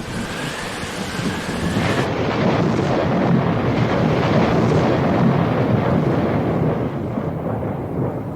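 A steady, deep, thunder-like rumble with a noisy hiss over it. A faint high tone sounds in the first two seconds, then stops.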